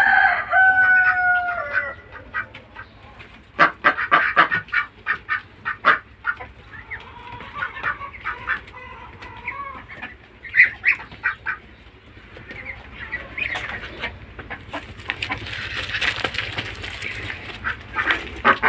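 Chickens clucking, with a rooster crowing once at the start. A run of sharp taps comes a few seconds in.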